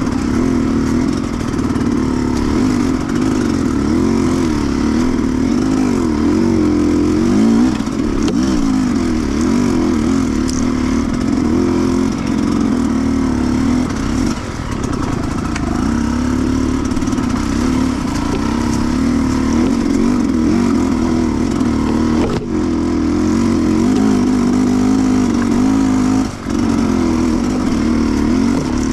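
Sherco 300cc two-stroke enduro motorcycle engine under way on a trail, its note rising and falling as the throttle works. It briefly drops off about halfway through and twice more in the last third.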